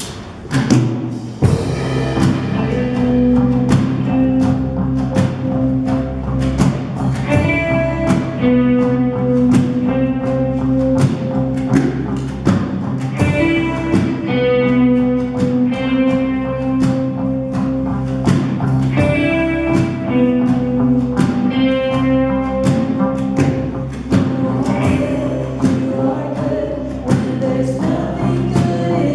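Live church worship band starting up: music with a steady beat and sung melody, most likely a congregational worship song.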